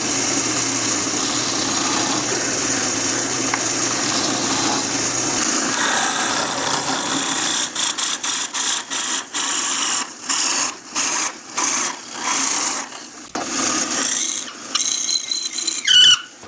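A power tool working wood. It runs steadily for about seven seconds, then in a string of short bursts, starting and stopping, with a brief squeal near the end.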